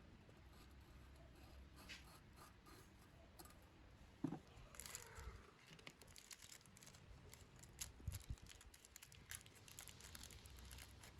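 Faint scattered clicks, taps and rustling from small parts and tools being handled, over a low steady hum. The sharpest tap comes about four seconds in.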